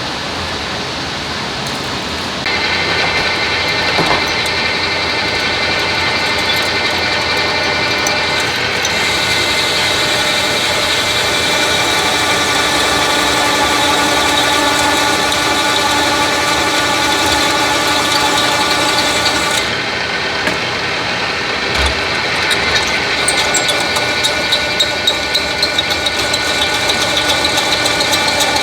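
Electric drill running steadily with a whine while drilling holes in steel; the pitch shifts a couple of times, and rapid clicking chatter comes in near the end.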